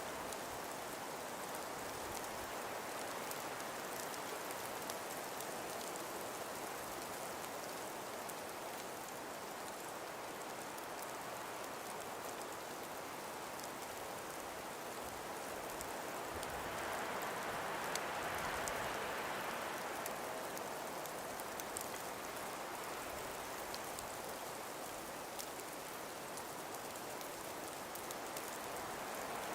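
Gentle wind blowing through frost- and ice-covered forest trees: a steady soft hiss that swells for a few seconds about two-thirds of the way through, with faint scattered ticks.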